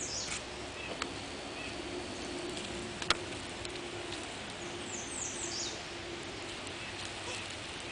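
A small bird calling: a quick run of high, falling notes at the start and again about five seconds in, over a faint steady low hum, with one sharp click about three seconds in.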